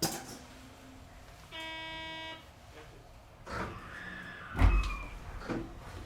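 Commuter train sounds: a sharp click, then a steady buzzer tone for just under a second, followed by clunks and a heavy thud about four and a half seconds in, like the train's sliding doors closing.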